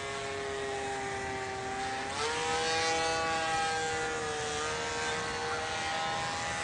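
Motor and propeller of a radio-controlled Cessna 182 model plane in flight, a steady whine that steps up in pitch about two seconds in and then holds.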